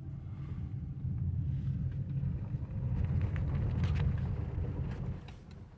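Car driving, a low engine and road rumble that grows louder about three seconds in and dies down near the end.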